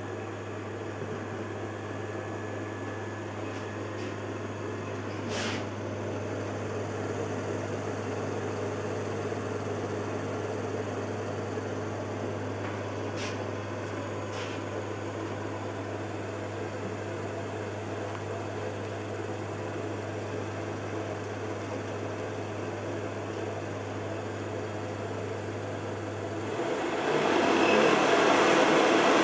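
Carver Fanmaster caravan heater's repaired 12-volt fan running at slow speed: a steady air rush over a low hum, with a few faint ticks. Near the end the hum stops and the fan noise gets clearly louder.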